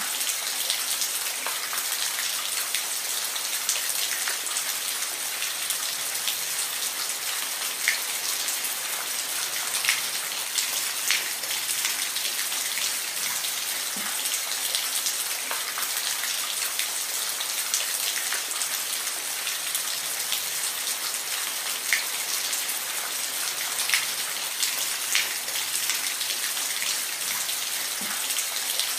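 Steady rain falling, an even hiss with scattered louder drops ticking on a surface every second or so.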